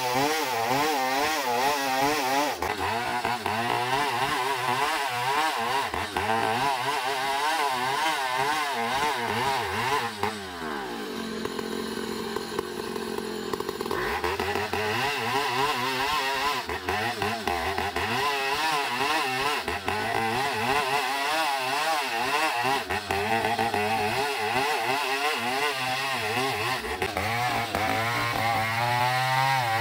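Chainsaw cutting through an ulin (ironwood) log, its engine running hard under load with the pitch wavering constantly. About ten seconds in the revs fall away to a lower, steadier note for a few seconds, then climb back up as cutting resumes.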